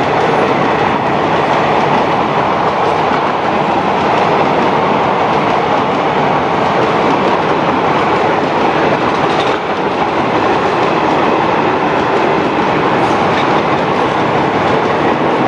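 Passenger train running past at speed: a steady, loud rumble and rattle of coach wheels on the rails.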